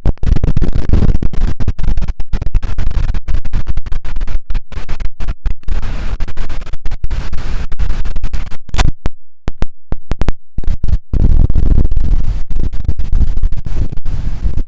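Strong wind buffeting a phone microphone: loud, distorted rumble that keeps cutting out for split seconds.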